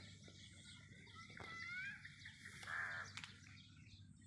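Faint bird calls: a rising whistled call about a second and a half in, then a short call just under three seconds in.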